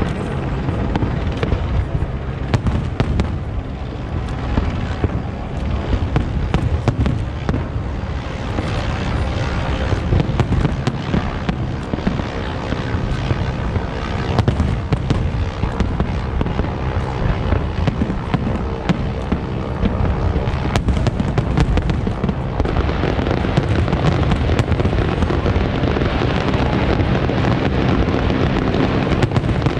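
Large aerial fireworks display: a continuous barrage of shell bursts, booms overlapping with crackling reports. The crackle thickens in the last third.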